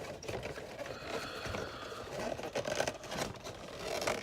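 Plastic toy train accessory being worked back into its cardboard box: scraping and small, irregular knocks and clicks.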